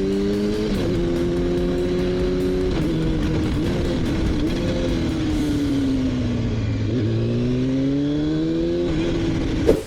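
Motorcycle engine while riding. Its pitch climbs and drops sharply at a gear change just under a second in, then holds steady. It falls away as the bike slows around the middle, then climbs again to another shift near the end.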